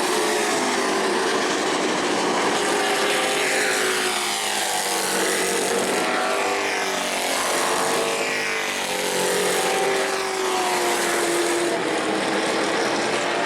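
Race truck engines running at speed on a short asphalt oval, their pitch rising and falling as trucks pass and accelerate through the corners.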